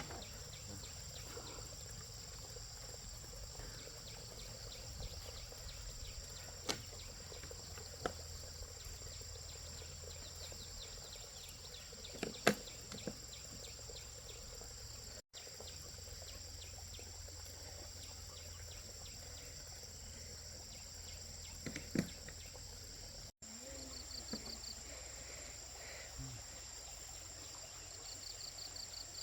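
Insects chirring steadily at a high pitch, with a few scattered short knocks.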